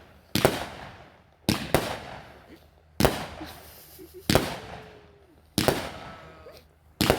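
A 200 gram Raging Willow consumer firework cake firing shot after shot: six loud bangs, about one every second and a half, one of them a quick double, each trailing off in a fading echo.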